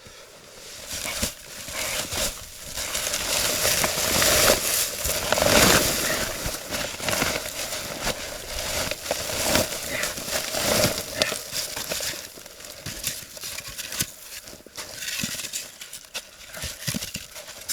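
Snow crunching, with many small crackles and clicks; it is loudest a few seconds in.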